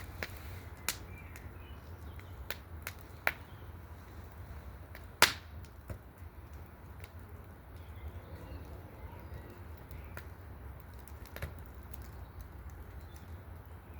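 Small wood fire in a fire basket crackling, with sharp, irregular pops of burning wood, the loudest about five seconds in.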